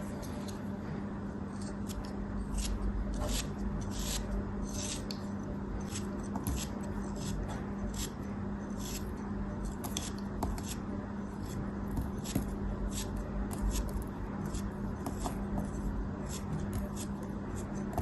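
Crisp, irregular crunches and scrapes of soft crafting material being cut, several a second, over a steady low hum.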